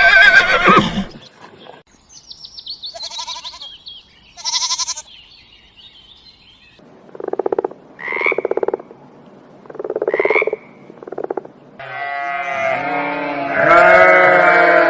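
A run of animal calls: a horse's whinny ending in the first second, then several short pulsed, croaking calls, then from about twelve seconds in many animals bleating together at once.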